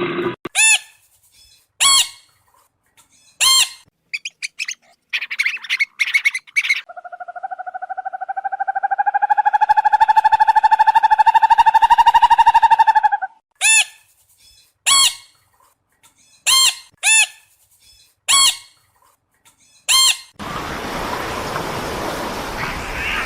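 A bird calling: short, sharp, high chirps repeated at irregular intervals, with one long, drawn-out call lasting about six seconds in the middle. Near the end the calls give way to a steady hiss of noise.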